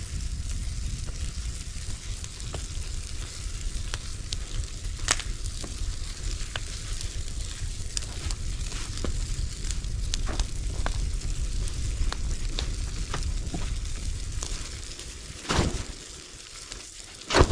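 Bonfire of old mattresses and feather pillows burning: a steady low rush of flame with scattered sharp crackles and pops. The low rush eases off near the end.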